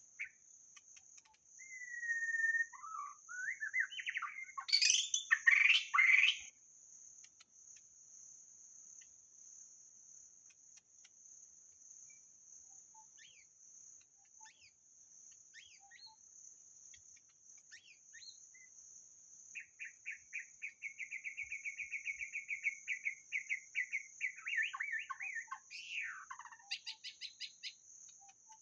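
White-rumped shama singing: a burst of loud, varied whistled phrases, then a long quieter stretch with scattered faint notes, then a fast rattling run of repeated notes that ends in a falling whistle. A steady high-pitched insect drone runs underneath.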